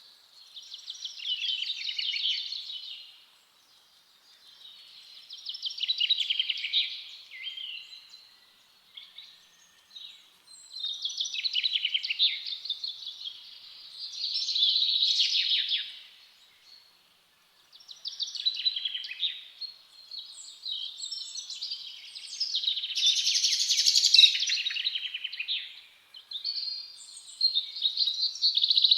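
Forest songbirds singing: repeated phrases of quick, high, twittering notes, each two to three seconds long with short pauses between, running more continuously near the end.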